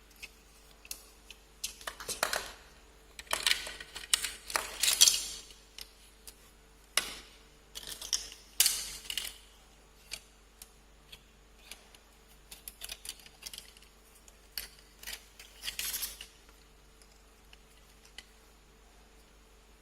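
Small hard-plastic action-figure weapon parts being handled and pressed onto the figures: irregular clicks, taps and short scrapes, busiest in the first half and again near the end.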